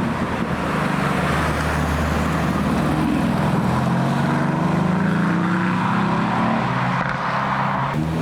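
A car engine running loud and low, its pitch rising slowly from about three seconds in as it pulls away.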